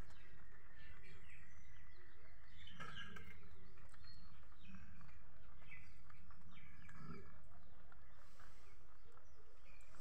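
Birds chirping in short calls over a steady low background rumble, with a few faint scattered clicks.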